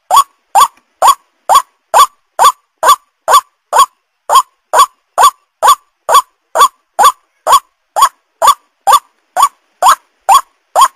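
White-breasted waterhen calling the same short rising note over and over, about two calls a second at an even pace.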